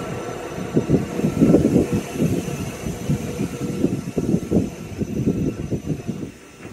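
ScotRail passenger train moving past close by: an uneven low rumble from the wheels and bogies on the track, with a faint steady whine above it. The rumble drops away near the end as the last of the train passes.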